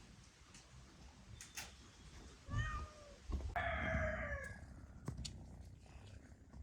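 An animal calling twice: a short call about two and a half seconds in, then a longer, slightly falling one a second later, with a few light clicks around them.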